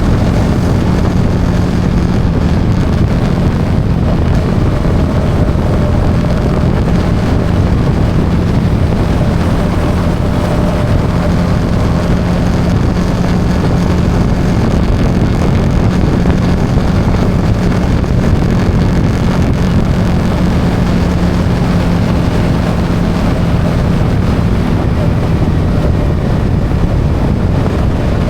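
Yamaha XSR 155's single-cylinder engine running at a steady cruise, its pitch holding nearly constant, under heavy road and wind noise on the microphone.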